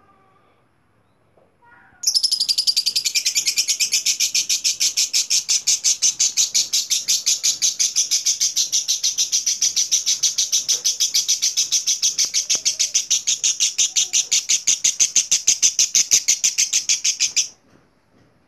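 Lovebird ngekek: one long, unbroken, shrill chattering trill, about seven notes a second. It starts about two seconds in, runs for some fifteen seconds and stops abruptly.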